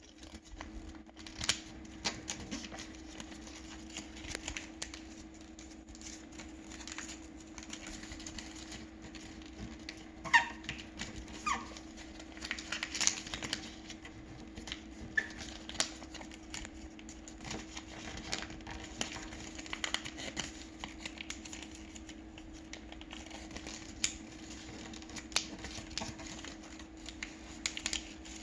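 Sheet of paper being handled and folded for origami: irregular rustling and crackling of creases being pressed, with a few short squeaks about ten seconds in. A steady low hum runs underneath.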